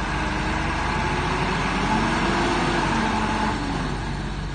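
Diesel engine of heavy earthmoving machinery running continuously, its pitch rising and falling slightly as the engine speed changes.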